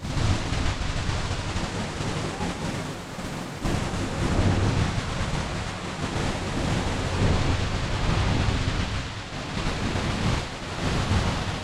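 Steady roar of a large waterfall, with wind gusting on the microphone as an uneven low rumble.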